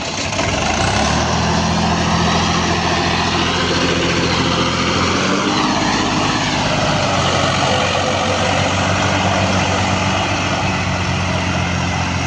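Diesel tractor engine running steadily just after starting. It comes up to speed about a second in, and its pitch shifts a little partway through.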